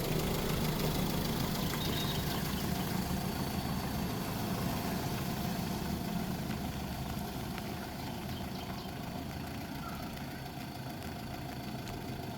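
Vehicle engine running steadily, slowly growing a little quieter.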